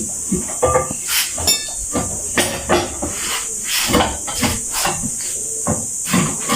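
Irregular knocks and clatter of hand tools at work on a tubeless tire, over a steady high hiss.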